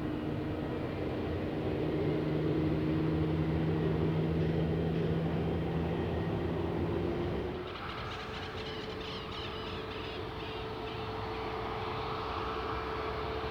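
Jet aircraft engines running with a steady drone. About eight seconds in the sound changes abruptly to a different steady tone with more hiss.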